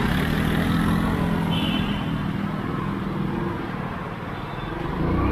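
Motor vehicle engine running with a steady low hum that fades out after about three and a half seconds, over a background of road noise.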